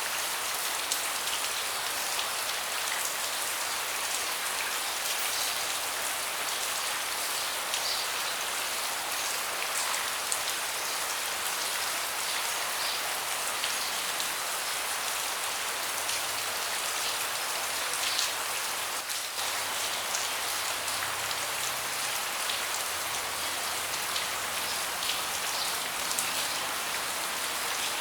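Steady rain falling on a deck, a constant hiss with scattered individual drops ticking close by.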